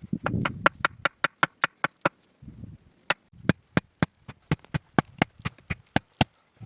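Rapid sharp strikes of a hand tool on wood, about four to five a second, in two runs with a short break about two seconds in. Each strike carries a faint metallic ring.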